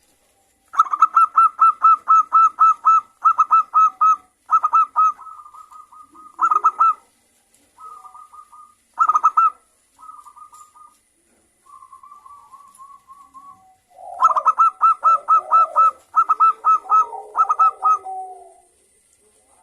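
Zebra doves (perkutut) calling back and forth, fast runs of short staccato cooing notes in loud bursts with softer runs between them. Near the end a lower-pitched cooing runs under the loud runs.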